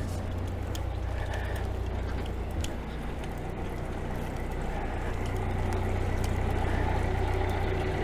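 Perkins 4-108 four-cylinder marine diesel engine running steadily, growing somewhat louder about five seconds in, with a few light ticks over the running.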